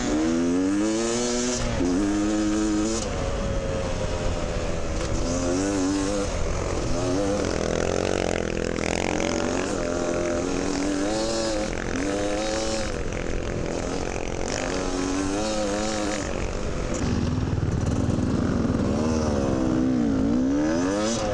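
Dirt bike engine being ridden hard through sand, its pitch repeatedly rising under throttle and dropping back as it shifts gear and backs off.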